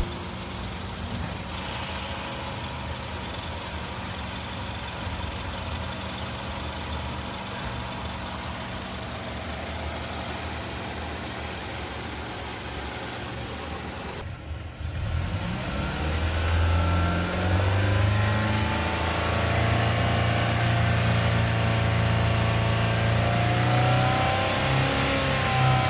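2014 Mazda 3's 2.5-litre petrol four-cylinder engine idling steadily. After a sudden break about halfway, the engine speed rises over a couple of seconds and is held at a higher, louder pitch.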